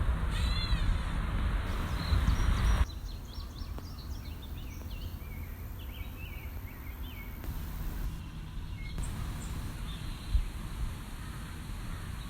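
Wind rumbling on the microphone, cutting off about three seconds in, then birds chirping in many short calls for several seconds.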